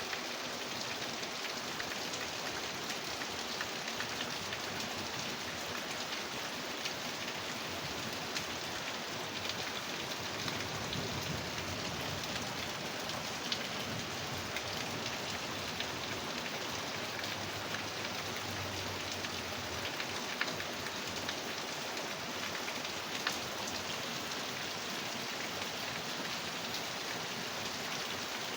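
Heavy rain pouring down steadily, a dense even hiss with sharp drop hits scattered through it.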